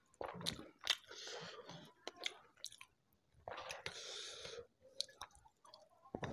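Close-miked chewing of shrimp in chili sauce and rice, with wet mouth smacks and several sharp clicks.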